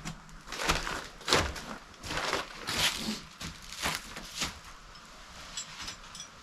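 Tools and parts being handled at a workbench: a string of short scraping, rustling knocks, then a few faint light ticks near the end.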